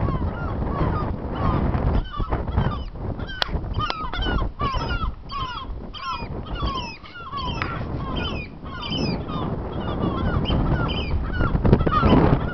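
Birds calling over and over, many short hooked calls a second overlapping, with strong wind buffeting the microphone.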